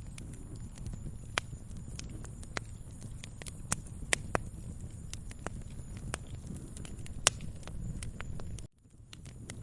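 Wood fire crackling: irregular sharp pops and snaps over a low, steady rumble of burning logs. Near the end the sound cuts out suddenly for about half a second, then comes back.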